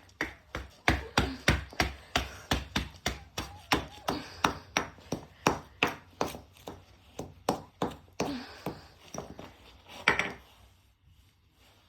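Washing machine running to destruction, its drum knocking hard and evenly about three times a second, with one loudest bang near the end before the knocking dies away. The machine is shaking itself apart on its failing suspension.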